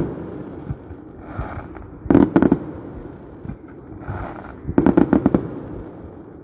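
Fireworks exploding, with two rapid volleys of sharp bangs about two and five seconds in over a continuous rumble of more distant bursts.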